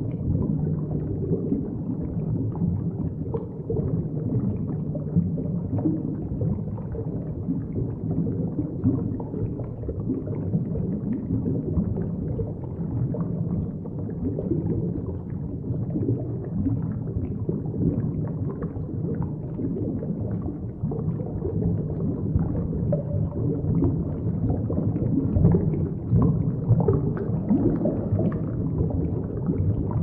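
Underwater ambience: a steady, muffled low rumble with faint irregular crackles, slightly louder in the last few seconds.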